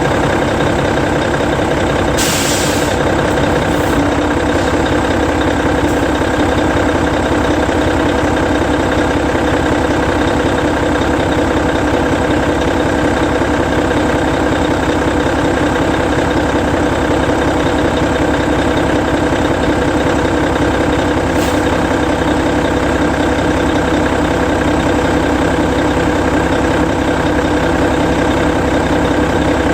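Hino E13C 12.9-litre inline-six diesel in a Hino Selega bus idling steadily. About two seconds in comes a sharp hiss of compressed air as the air-operated parking brake is set, followed by fainter short hisses.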